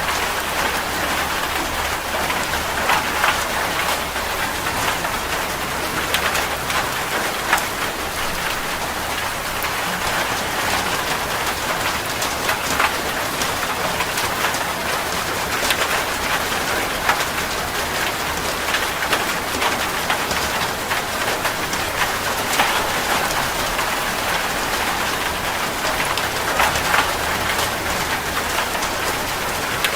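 Steady rain falling on a surface, a dense patter with many distinct drop hits.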